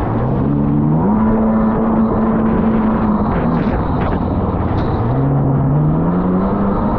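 Jet ski engine under throttle: the pitch climbs over the first second, holds steady, drops about three seconds in, then climbs again, over a steady rush of wind and water noise.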